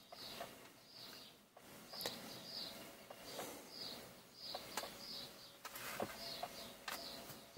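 Faint bird chirping: short high calls, often in pairs, repeating about once or twice a second, with a few light clicks.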